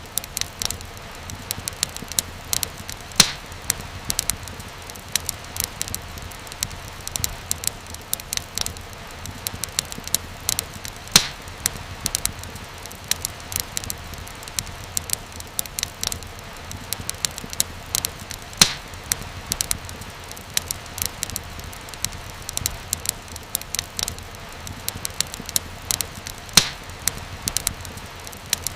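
Wood fire crackling steadily, with many small snaps over a soft low rumble and hiss. A louder pop stands out about every eight seconds.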